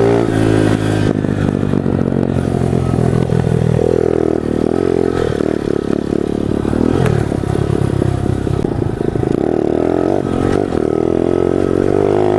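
Small single-cylinder pit bike engine running while being ridden; its note holds steady between shifts in engine speed about a second in, around four seconds, and again near nine seconds.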